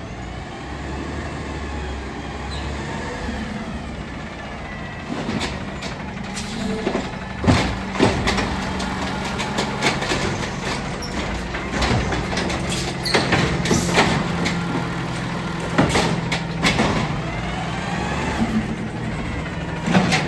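Garbage truck's diesel engine running under hydraulic load, its pitch rising and holding steady about five seconds in, with repeated bangs and knocks from a waste container being lifted and emptied.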